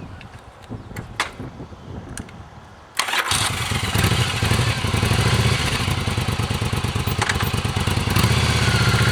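Motorcycle engine starting up about three seconds in, after a few faint clicks, then running steadily at idle with a low, fast pulse, a little louder near the end.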